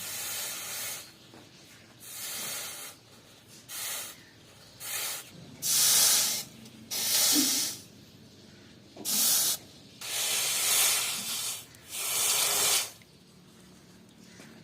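About nine short bursts of hissing, rushing noise at irregular intervals, each lasting from a fraction of a second to over a second, with quiet gaps between.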